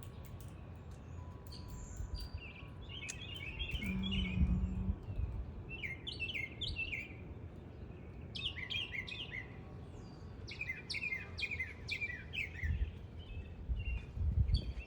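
Songbirds singing: several short phrases of quick, chirping notes, separated by pauses of a second or two, over a low background rumble.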